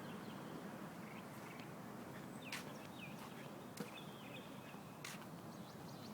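Faint outdoor background with scattered short bird chirps and a few sharp clicks.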